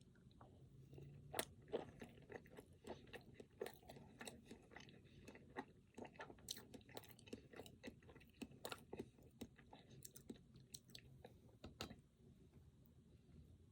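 A person chewing a Pingüino chocolate-coated, cream-filled snack cake, a quick run of sharp wet mouth clicks and bites that stops about twelve seconds in.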